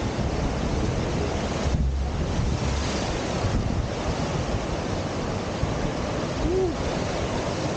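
Steady rushing whitewater of a standing river surf wave, with wind buffeting the microphone.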